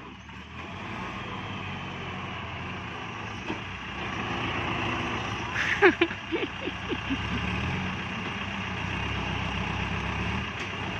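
Diesel farm tractor engine running hard under load, getting louder about four seconds in, with a brief sharp higher-pitched sound near the middle.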